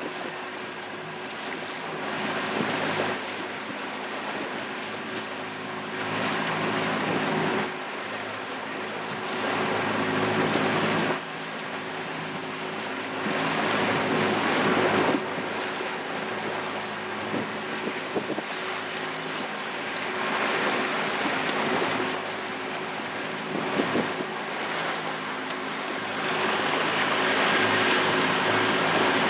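Boat engine running steadily, with water rushing past the hull and wind on the microphone; the rushing swells and fades every few seconds.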